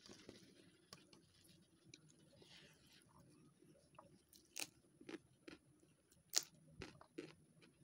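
Mouth sounds of eating: soft chewing of a mouthful of rice and fried beans, with scattered crisp crunches. Two loud crunches, about four and a half and six and a half seconds in, come as a long raw green chilli is bitten.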